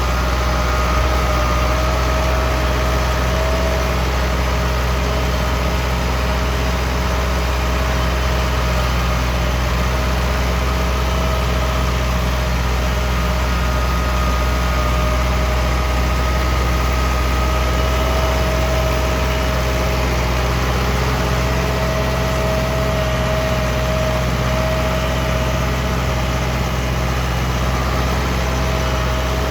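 Ford 6610 tractor's diesel engine running steadily, with a steady high whine over the low engine hum.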